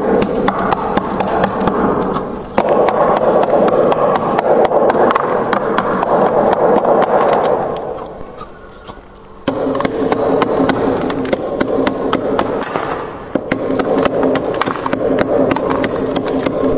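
Frost being scraped off a freezer's walls, long scratchy strokes full of fine crackling clicks. The scraping fades to a lull about eight seconds in, then starts again abruptly.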